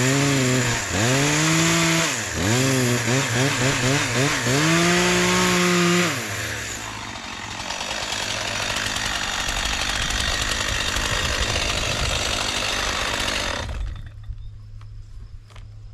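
Small high-revving petrol engine under load, its pitch dropping and climbing back several times in the first six seconds, then running more evenly before cutting off abruptly near the end.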